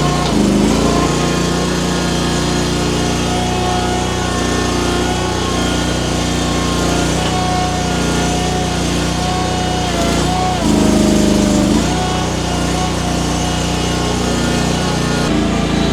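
Mini skid steer's small engine running steadily, with a louder stretch lasting about a second around eleven seconds in.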